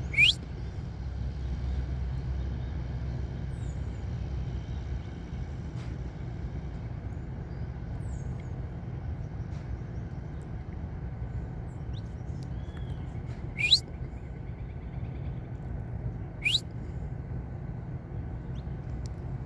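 Saffron finch giving three short, sharply rising call notes: one at the start, then two more about three seconds apart late on. A few faint short chirps fall between them, over a steady low rumble.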